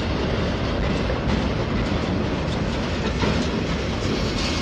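Freight train of autorack cars rolling past close by: a steady rumble of steel wheels on the rails, with clicks as the wheels cross the rail joints.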